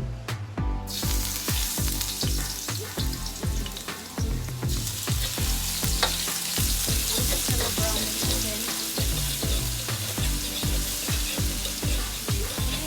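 Chicken, garlic and ginger sizzling in a hot pan. The sizzle starts about a second in and gets louder around the middle. Background music with a steady beat plays underneath.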